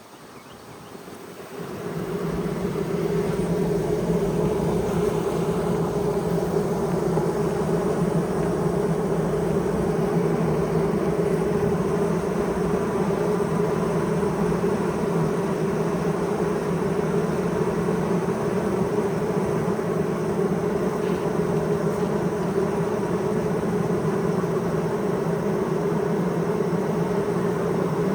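Honeybee colony humming inside the hive: a steady, even drone that builds up over the first couple of seconds and then holds level.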